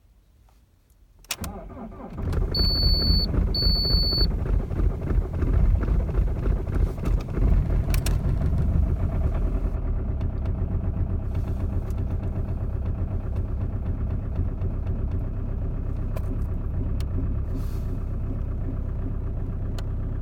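Alfa Romeo 147 1.9 JTD 8-valve diesel engine cold-starting at −20 °C: a brief crank about a second in, it catches almost at once and runs rough and uneven for several seconds, then settles into a steady idle. Two short high beeps sound soon after it catches.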